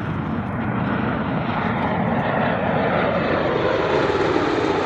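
Aircraft flying over, its engines making a steady roar.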